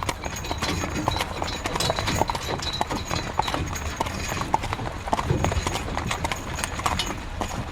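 Horse-drawn carriage: a horse's hooves clip-clopping at a walking pace in an uneven run of sharp knocks, over a continuous low rumble.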